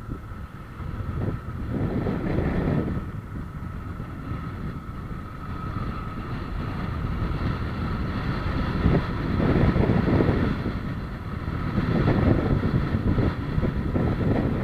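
A vehicle running at a steady pitch, with wind rumbling on the microphone in gusts that swell and fade every few seconds.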